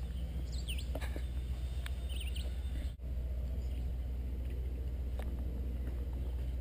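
Small birds chirping with short, quickly rising and falling calls during the first two seconds or so, over a steady low rumble.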